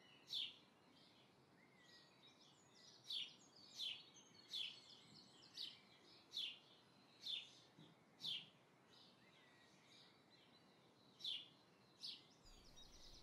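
Faint bird chirps: about ten short high calls, roughly one a second with a pause near the end, over near silence.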